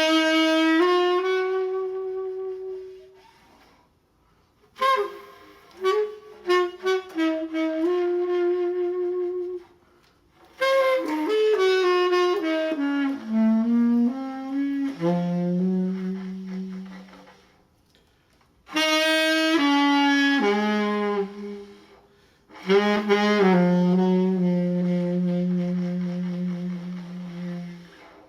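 Solo saxophone playing slow, sustained melodic phrases, five in all with short pauses between them; the last phrase settles on a long held low note.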